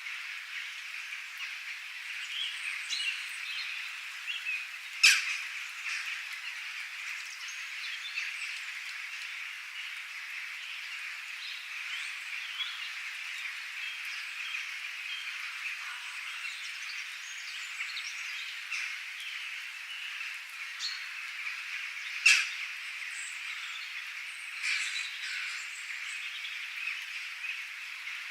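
Nature soundscape: a dense, steady chorus of small calls with bird chirps scattered over it. Two loud, sharp calls stand out, once about five seconds in and again a little past the middle.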